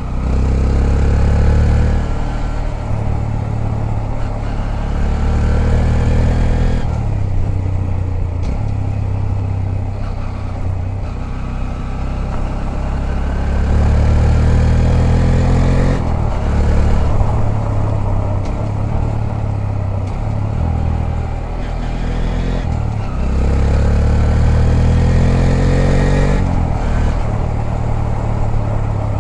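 Honda Grom 125's single-cylinder four-stroke engine heard from on board while riding. The engine pitch rises under throttle four times and drops back each time as the rider shifts or eases off.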